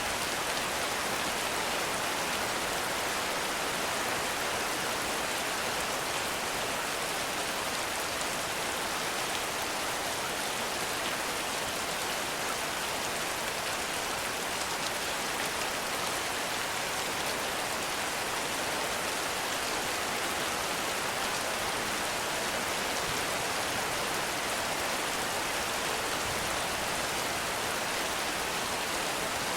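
Heavy rain falling steadily, a dense even hiss of drops with no breaks or distinct impacts.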